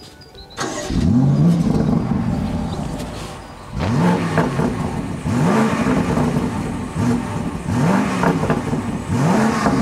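BMW X6 M50i's V8 petrol engine revved in a series of short throttle blips, each rising quickly in pitch and falling back. The first comes about a second in, and the rest follow more closely from about four seconds on. The reviewer finds the exhaust note dull and blames the particulate filter.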